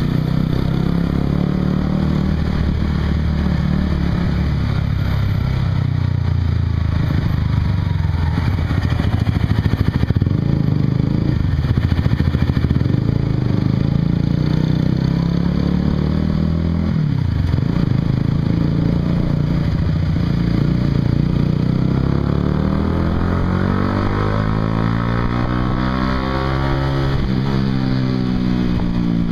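Honda CBR150R's single-cylinder four-stroke engine running through a Yoshimura aftermarket exhaust while riding. The pitch drops sharply and picks up again about halfway through, as at a gear change, and near the end the revs rise and fall several times.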